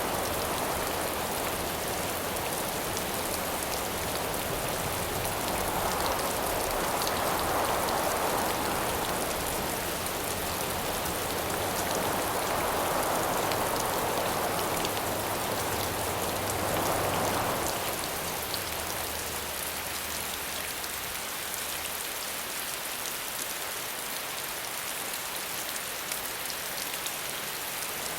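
Steady rain, with howling wind swelling and fading in gusts about three times in the first two-thirds; the last third is steady rain alone, a little quieter.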